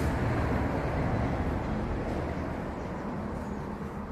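Steady low background rumble with a faint hum, easing slightly toward the end.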